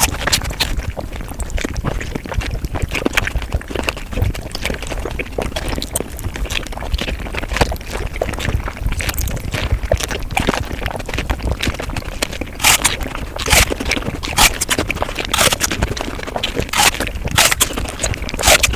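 Close-miked eating sounds (chewing, smacking and crunching) sped up five times, so they run together as a dense, rapid chatter of wet clicks. Sharper, crisper crunches stand out several times in the second half.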